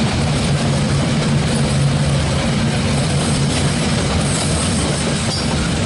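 SSR grain hopper wagons of a freight train rolling past close by: a steady, continuous noise of wheels on rails.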